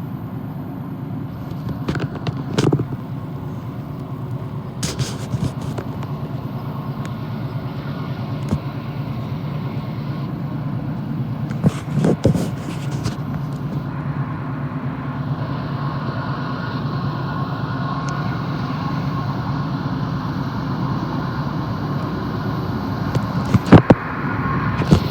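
Intermodal freight train rolling past: a steady low rumble of wheels on rail, broken by a few sharp clanks, the loudest near the end.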